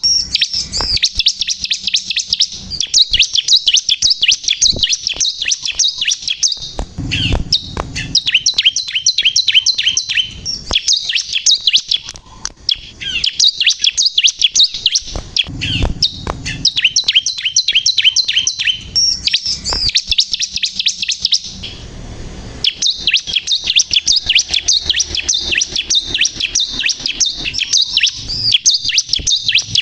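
A ciblek kristal (bar-winged prinia) singing energetically: long bouts of rapid, high, repeated chattering notes, broken by brief pauses a few times.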